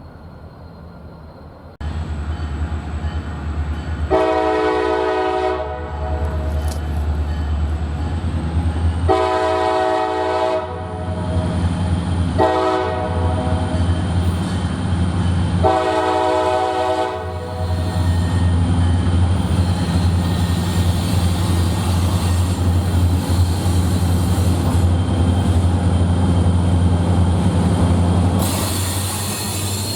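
Diesel freight locomotive blowing its multi-chime horn in the grade-crossing signal, two long blasts, one short and one long, over the steady rumble of its engine. Near the end the wheels begin to squeal.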